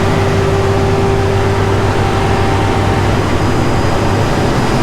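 Steady low rumble of car engines idling, with a thin steady tone over it that stops about three seconds in.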